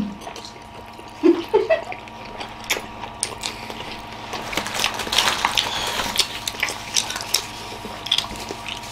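Several people chewing big mouthfuls of steamed momo dumplings: wet smacking and clicking mouth sounds throughout, with two short hums about a second and a half in.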